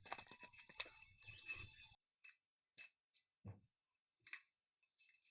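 Faint clicks, snaps and rustles of dry fire-making material being handled and arranged, dense for about the first two seconds, then a few scattered clicks.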